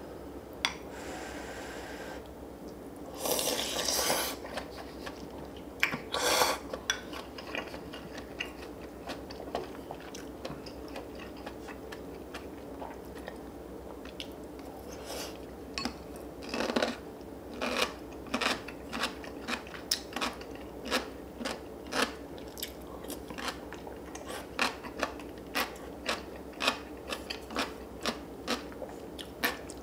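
Close-up eating sounds: cutlery clinking on dishes and a few brief noisy scrapes. From about the middle on there is a steady run of quick, regular crunches from chewing crunchy radish kimchi.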